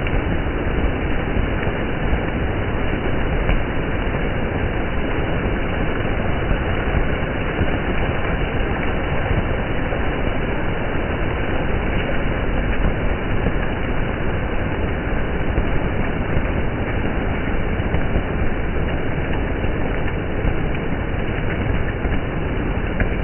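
Water splashing on a rain-soaked street: a steady, even rush with a low rumble.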